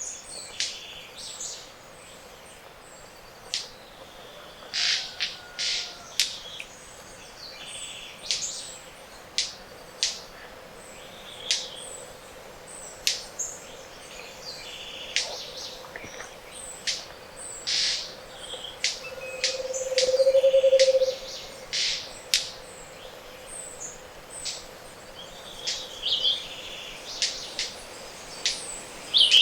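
Morning chorus of tropical Andean forest birds: many short, sharp high calls and snaps scattered throughout. Around two-thirds of the way in comes one low, hollow trill lasting about two seconds, the loudest sound.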